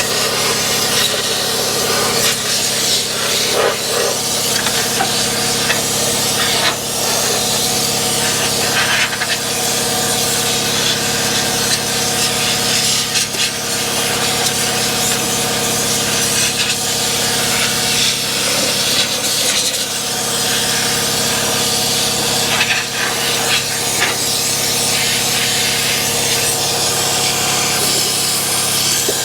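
Pneumatic undercoating gun spraying oil in a steady, loud hiss, with a steady hum underneath.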